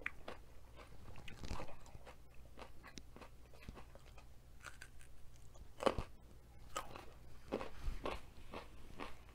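Close-miked crunchy biting and chewing of a raw baby carrot dipped in cheese sauce: irregular crisp crunches and wet mouth clicks, the sharpest about six seconds in.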